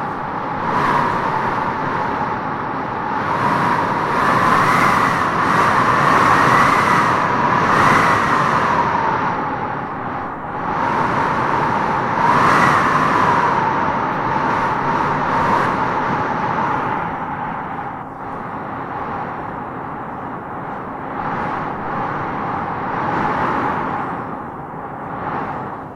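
Strong wind gusting through trees, a howling whistle that rises and falls in pitch as each gust swells, with the strongest gusts in the first half.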